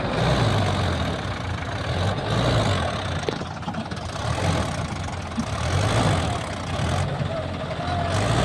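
Tractor diesel engine running at a steady idle, its low rumble swelling and easing slightly every second or two.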